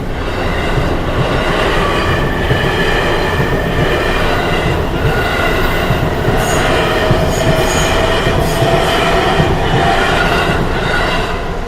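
Train passing close by over a level crossing, its wheels squealing on the rails in several high tones over a steady heavy rumble. It is loud and steady throughout.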